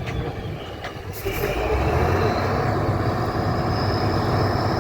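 Heavy trial truck engine running steadily, with a high whine that rises and then holds about halfway through.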